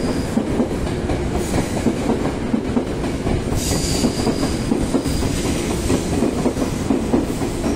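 Tōyō Rapid Railway 2000 series electric train pulling out and running, its wheels clicking over the rail joints under a steady rumble.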